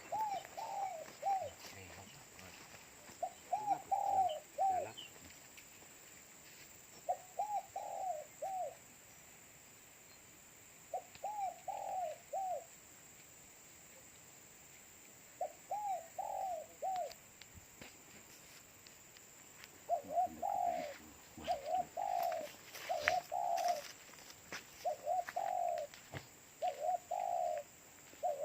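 Spotted dove cooing in short phrases of three or four notes, repeated every few seconds and coming faster and closer together over the last third.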